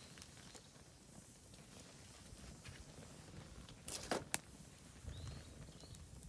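Oak firewood burning in a campfire brazier: a low, quiet rumble of the fire with a cluster of sharp crackling snaps about four seconds in. Two short high bird chirps follow near the end.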